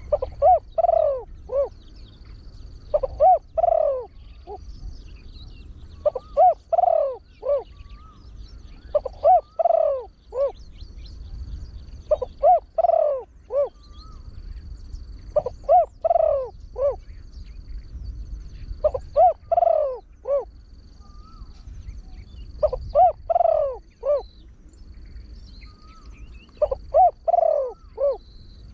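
A trained male spotted dove cooing, in the deep-voiced style kept as a lure call for wild doves. It repeats a short phrase of four or five rising-and-falling coos about every three seconds.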